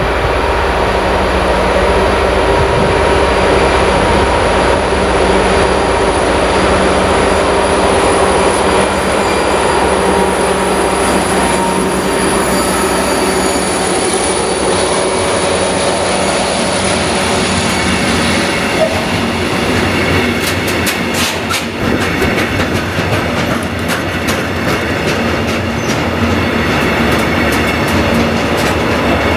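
Heavy freight train passing behind a DB class 232 diesel locomotive, whose Kolomna two-stroke V16 engine drones steadily as it approaches and goes by. In the last third the wagons' wheels clatter rhythmically over the rail joints.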